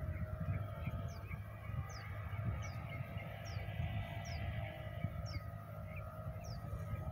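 A bird repeating a short, high, downward chirp every second or so, over wind rumbling on the microphone.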